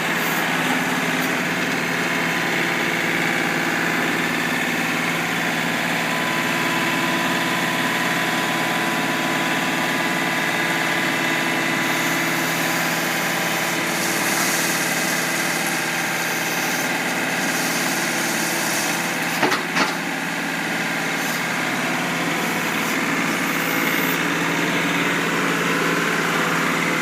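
Tractor engine running steadily. Two sharp knocks come close together about two-thirds of the way through.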